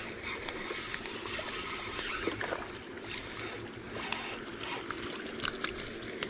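Water splashing and trickling with scattered light clicks, as a hooked bass is fought at the surface and brought in.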